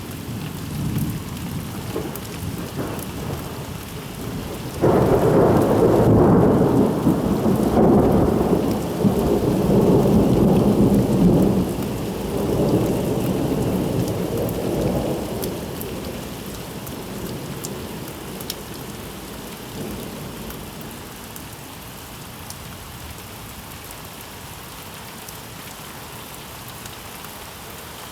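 Steady rain with a loud clap of thunder about five seconds in that rolls and rumbles on in several surges for about ten seconds, then dies away, leaving the rain.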